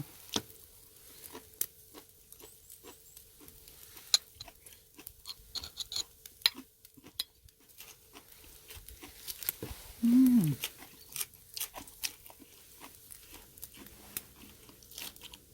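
Pork neck crackling on a charcoal brazier, with scattered small irregular pops and ticks of spitting fat. A brief hum from a person about ten seconds in.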